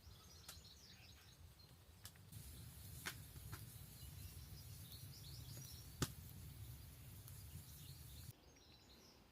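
Wood campfire crackling faintly, with a few sharp pops, under faint birdsong.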